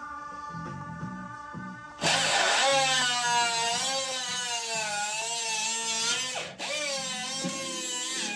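A handheld power tool, like a drill, starts about two seconds in and whines loudly, its pitch wavering as the speed changes. It cuts out briefly near the end and starts again. Background music plays underneath.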